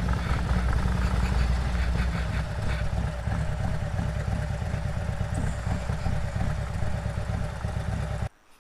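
Harley-Davidson motorcycle's V-twin engine running at low speed with a steady low rumble, cutting off suddenly near the end.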